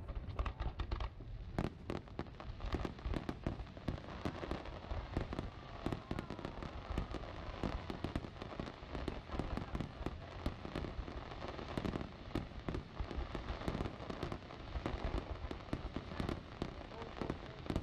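Aerial fireworks display: a dense, continuous run of sharp bangs and crackles from many shells bursting close together, with no let-up.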